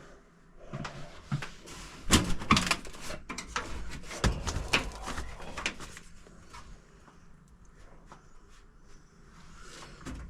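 Clicks, knocks and rustling of hands handling tools and parts while working on a furnace, busiest in the first half and thinning out to a few light ticks.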